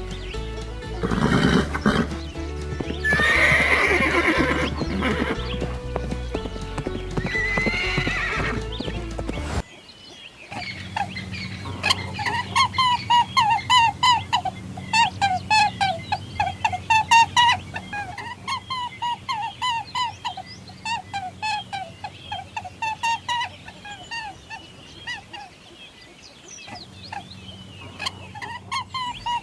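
Farm animal calls over background music. A few long, loud calls come in the first third. After a sudden cut, a long string of short, quick, high calls follows.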